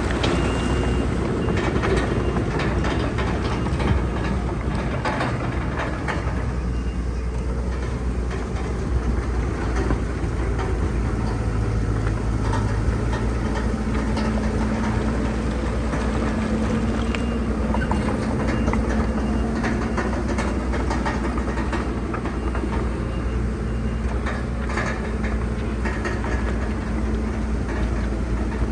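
Diesel bulldozer working, its engine running steadily under load while its steel tracks clank and rattle over dirt and rock, with irregular knocks and crunches throughout.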